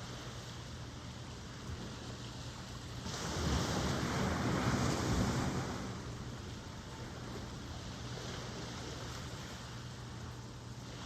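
Ocean surf: a steady background wash, with one wave breaking and rushing in about three seconds in, louder for some three seconds before it settles back.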